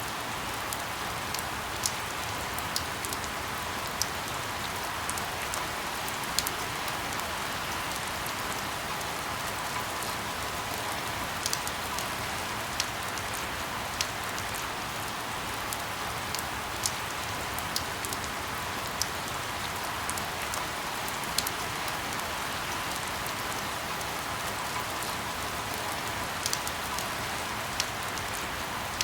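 Steady rain falling, a continuous hiss with scattered sharp drips and ticks of single drops hitting a surface.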